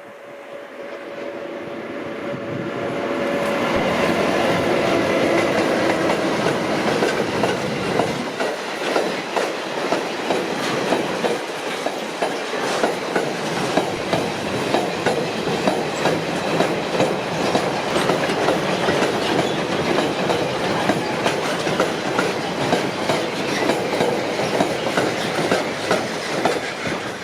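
A train approaching and running past close by, growing louder over the first few seconds, then a long, steady rumble with regular clickety-clack of wheels over the rail joints.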